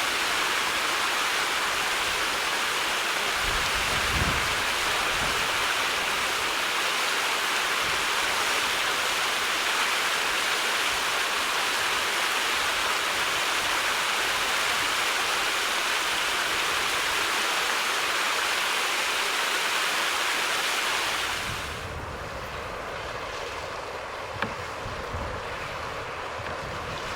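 Steady rush of flowing water, as from a stream or weir, which drops to a quieter, thinner level about three-quarters of the way through, with low gusts of wind on the microphone after that.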